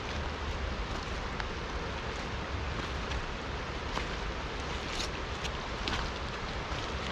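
Steady rushing of a river, with a few sharp ticks scattered through it and a low rumble of wind on the microphone.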